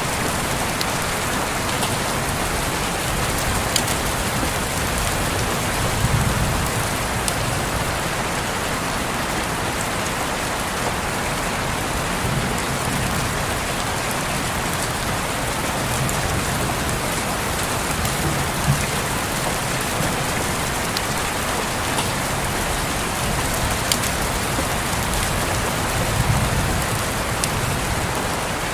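Steady rain falling and pattering on a window, with scattered sharper drop ticks and occasional soft low swells.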